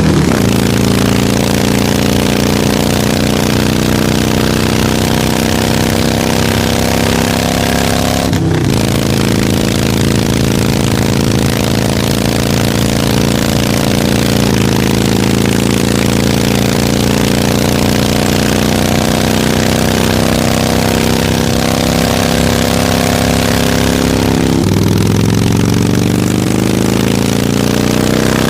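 Harley-Davidson motorcycle's V-twin engine running under way, holding a steady note for long stretches, with a brief break in the sound about eight seconds in, a step in pitch about halfway through, and engine speed climbing near the end as it accelerates.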